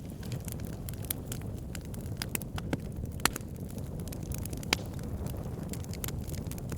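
Wood fire burning with a steady low rumble and frequent sharp crackles, two louder pops a little past the middle.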